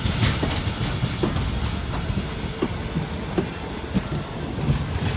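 Passenger cars of a steam-hauled train rolling past slowly: a steady low rumble with wheel clicks over the rail joints coming about every half second to second.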